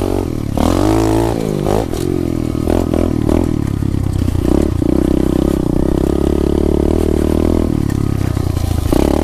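SSR 125 pit bike's single-cylinder four-stroke engine running under throttle while riding. The pitch rises and falls over the first couple of seconds, then holds fairly steady and changes again near the end.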